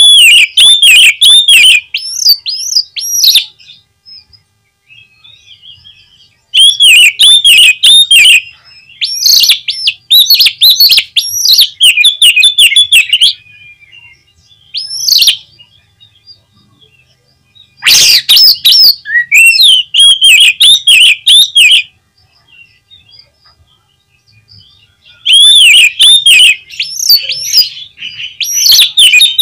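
Oriental magpie-robin (kacer) singing loud, rapid phrases of varied whistled and warbled notes, in bursts of a few seconds with short pauses between them, the kind of lure song played to rouse a kept male into song.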